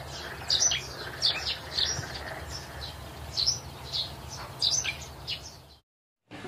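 Small birds chirping outdoors: short high chirps, often in pairs, about two a second, over a steady low hum. The sound cuts out suddenly near the end.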